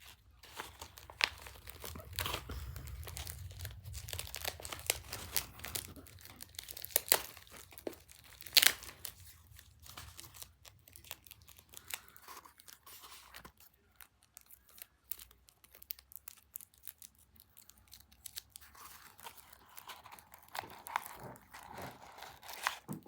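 Paper and craft materials being handled and crinkled close to the microphone, with scattered sharp crackles and clicks and a low handling rumble a couple of seconds in.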